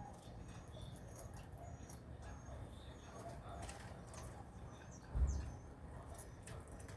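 Small birds chirping with short high tweets and light clicks, over a low steady hum. A single dull thump about five seconds in is the loudest sound.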